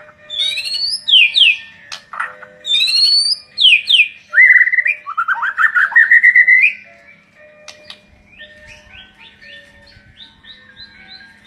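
White-rumped shama (murai batu) singing: loud whistled phrases of sweeping and rising notes for the first six or seven seconds, then softer short chirps.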